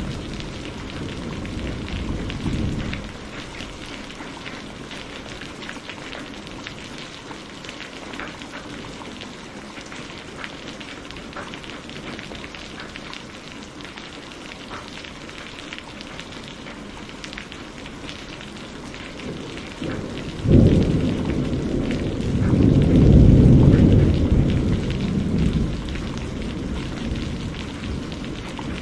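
Steady rain falling, with a low thunder rumble dying away in the first few seconds. About two-thirds of the way through, a sudden thunderclap breaks in and rolls on as a long, loud rumble before fading back under the rain.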